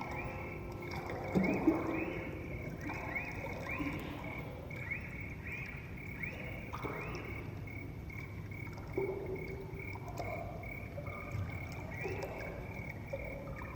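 Ambient music: a high tone pulsing steadily, with a run of short upward-swooping chirps over the first half and scattered soft lower tones, sounding rather like frogs or water.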